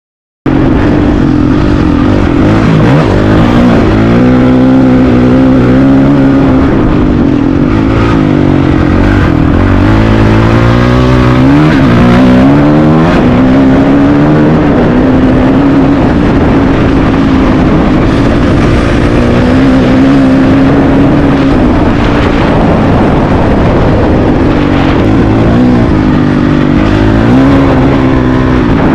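Honda CRF450RL dual-sport motorcycle's single-cylinder four-stroke engine running under way off-road, its revs rising and falling over and over with the throttle.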